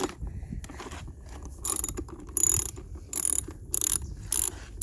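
Ratchet wrench clicking in a run of short strokes, about one every two-thirds of a second, as a 10 mm bolt on a dirt bike is worked loose.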